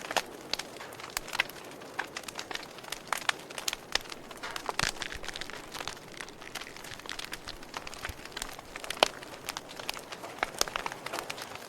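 Wood fire crackling in a fireplace: irregular sharp snaps and pops over a steady soft hiss, one louder snap about nine seconds in.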